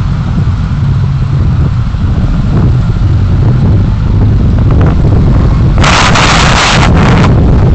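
Vehicle on the move as picked up by a dashcam microphone: a loud, steady low rumble of road and wind noise. About six seconds in, a loud hiss lasting about a second, then a shorter one.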